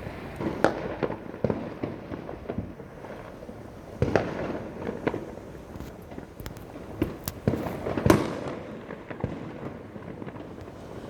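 Fireworks going off across the sky: a continuous rumble and crackle of many distant bangs, with sharper, nearer bangs every second or so, the loudest about eight seconds in.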